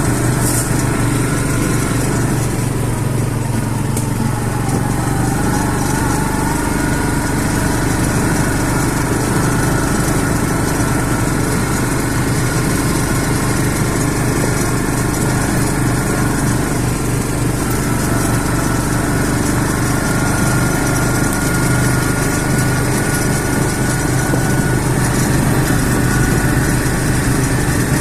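CFMoto CForce 500 ATV's single-cylinder engine running steadily at a fairly even speed.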